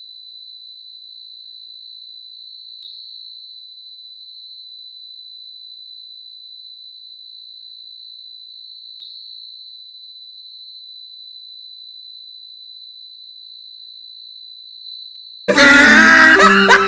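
A single steady high-pitched tone, held unbroken and unchanging for about fifteen seconds. Near the end, loud music with sliding, cartoonish pitches cuts in suddenly.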